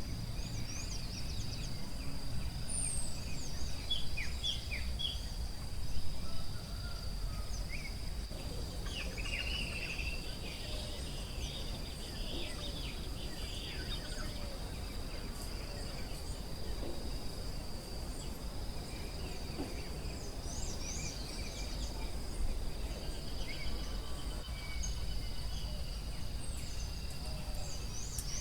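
Forest ambience: a steady high-pitched insect drone with many short bird chirps and whistles over it, thickest in the first half, above a low background rumble.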